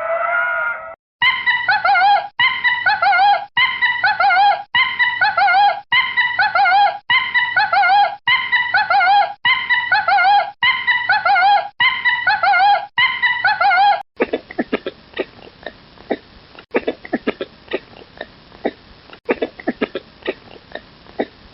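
Lemur calls: a wavering, high-pitched call repeated about once a second for some thirteen seconds, then a quicker run of short grunting clicks.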